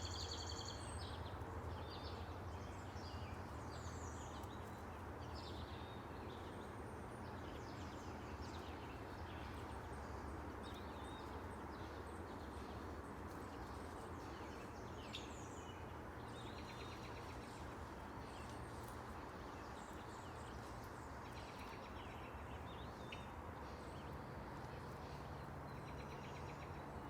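Birds chirping and calling, many short high calls scattered throughout, over a steady low background rumble.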